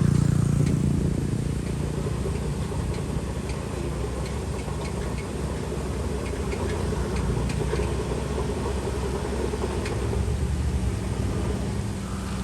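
Heavy diesel engine of earthmoving machinery running steadily, a little louder at first and easing after a second or two, with scattered faint clicks over it.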